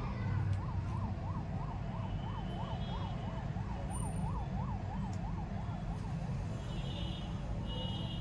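Emergency vehicle siren in a fast yelp, rising and falling about three times a second, dying away about six seconds in, over a steady low rumble. Faint bird chirps come near the end.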